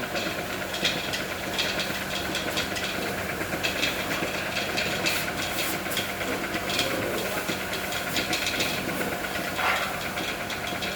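Mahindra 605 tractor's four-cylinder diesel engine running steadily, with a hiss and a ticking clatter over it.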